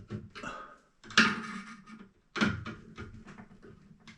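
A light knock, then two louder sharp knocks a little over a second apart, each dying away quickly.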